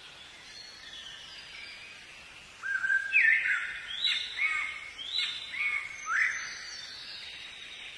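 Songbird singing: a run of loud notes that glide sharply upward, starting about two and a half seconds in and ending about six seconds in, with fainter, higher bird calls before and after.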